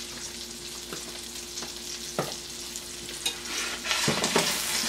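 Salmon fillet frying in butter in a hot stainless steel pan, with fresh butter just added: a steady sizzle that grows louder about three seconds in, with a few light clicks of a metal utensil on the pan.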